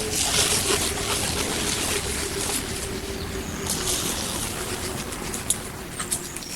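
Dry fallen leaves rustling and crackling, with a faint steady tone underneath.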